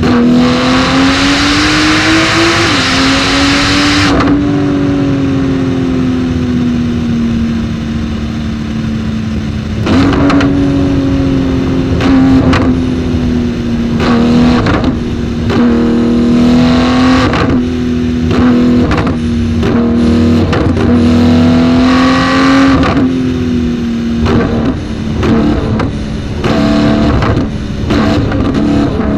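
Straight-piped Porsche 911 GT2 RS twin-turbo flat-six driven flat out, revs climbing and falling again and again through gear changes, with short sharp cracks between pulls. A hissy rushing noise sits over the engine for the first four seconds.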